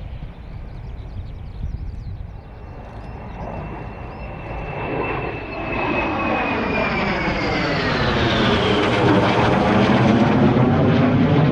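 Fixed-wing airplane flying past: a high whine and a stack of engine tones glide downward in pitch as it passes, the sound building steadily and loudest near the end.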